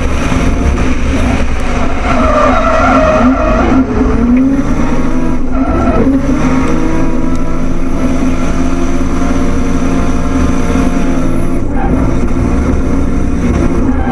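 Drift car engine running hard at high revs while its tyres screech in a sustained slide, with the engine pitch rising in a few glides in the first half.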